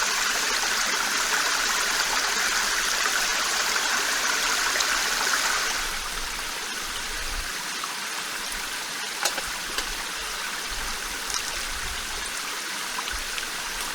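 Flowing water, a steady rushing that drops in level about six seconds in, with a few faint ticks in the second half.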